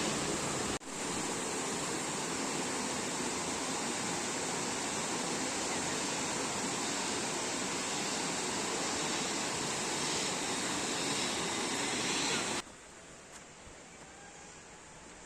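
Rushing water, a mountain stream or small waterfall, as a steady, even rush. It breaks off for a moment about a second in and cuts off abruptly near the end, giving way to a much quieter background.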